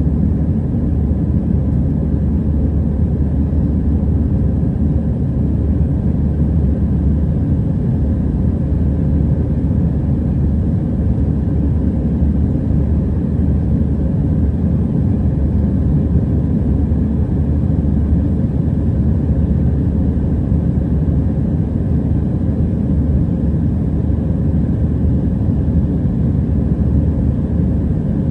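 Steady cabin rumble of an Airbus A320-212 airliner heard from inside the passenger cabin: the drone of its CFM56 engines and airflow, deep and even with a faint hum above it, with no rise or fall in engine power.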